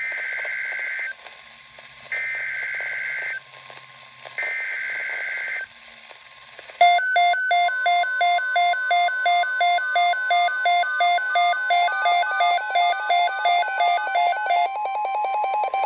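Emergency Alert System SAME header over radio hiss: three one-second bursts of digital data warble. Then a loud electronic alert beeping starts, about three beeps a second, with a steady tone beneath it: the alarm that an incoming warning sets off.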